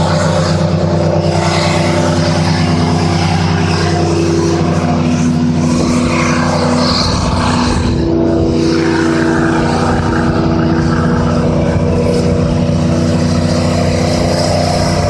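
Truck engines held at steady high revs during a burnout, with spinning tyres adding a hissing noise over them.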